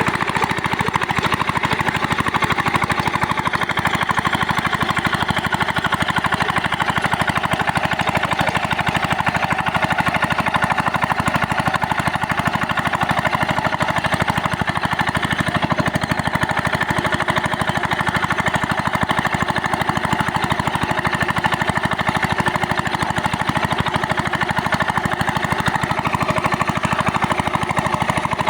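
Small 5 hp single-cylinder diesel water-pump engine running at a steady speed, with a rapid, even knocking beat.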